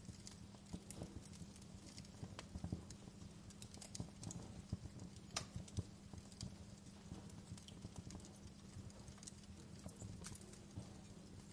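Wood fire burning in a fireplace, crackling with irregular sharp pops over a soft low rumble of flames.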